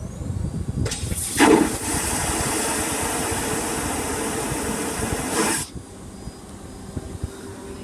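Airplane vacuum toilet flushing: a loud whoosh of rushing air that starts about a second in with a sharp surge, holds for about four seconds, and cuts off suddenly.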